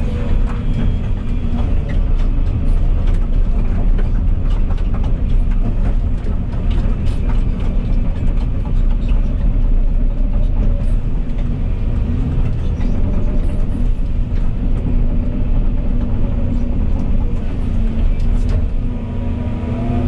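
Volvo EC220E excavator's diesel engine and hydraulics running steadily while digging, with a steady hum and scattered light clicks of stones.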